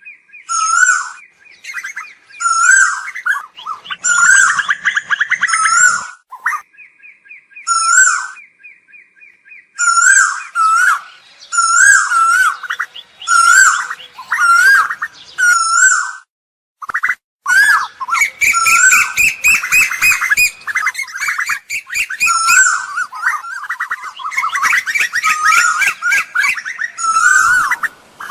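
Asian koel calling: short swooping notes repeated about once a second, alternating with fast runs of rapid notes, the calls overlapping densely in the second half.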